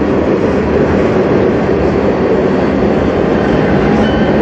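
Freight cars of a manifest train rolling past at close range: tank cars, a covered hopper and bulkhead flatcars on steel wheels, making a loud, steady rumble on the rails.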